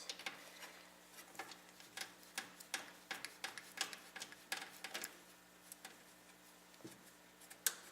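Screws being worked out of a PC case's hard-drive cage: irregular light clicks and ticks, a few each second, with one sharper click near the end.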